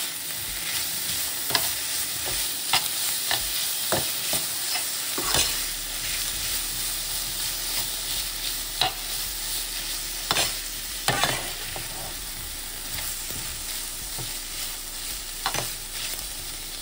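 Bell peppers, onion and chopped deli meat sizzling in a hot pan, with a steady frying hiss. A utensil stirring them scrapes and clicks against the pan at irregular intervals.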